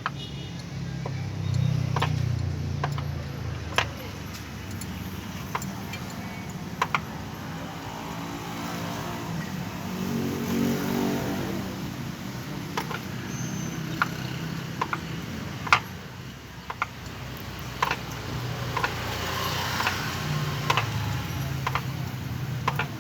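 Road traffic passing on a highway, a low rumble that swells twice, with one vehicle's engine rising and falling in pitch as it goes by in the middle. Scattered sharp clicks of hand tools on metal sound throughout.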